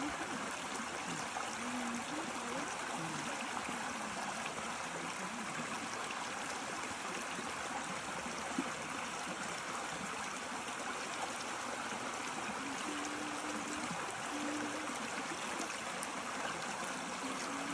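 Waterfall and its stream rushing steadily, an even wash of falling and flowing water.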